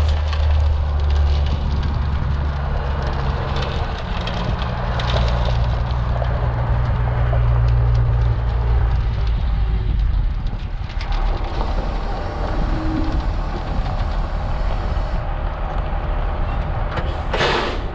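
International S1900 dump truck's DT466 inline-six diesel running under load while gravel rattles out of the raised bed through the tailgate; the engine hum drops off about ten seconds in. A short burst of air hiss comes near the end.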